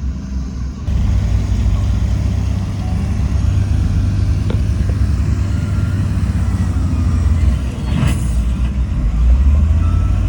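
Heavy diesel earthmoving machinery running with a deep, steady engine rumble that gets louder about a second in. A short sharp noise cuts through about eight seconds in.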